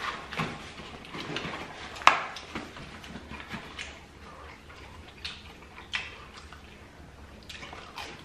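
Chewing and mouth sounds of people eating chicken nuggets: an uneven run of short clicks and smacks, the sharpest about two seconds in.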